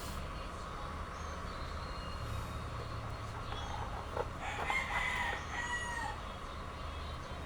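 A rooster crowing once, a pitched call of about a second and a half around the middle, over a steady low hum.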